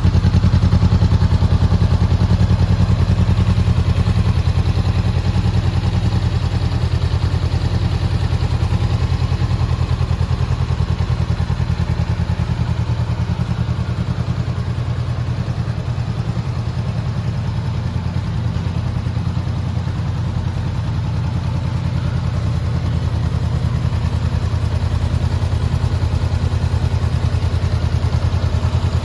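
Honda CBR400R's 399 cc parallel-twin engine idling steadily, with an even, unchanging low pulse and no revving.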